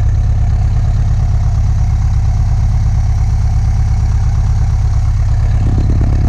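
1989 Volkswagen Vanagon engine idling steadily, still warming up and not yet at full operating temperature.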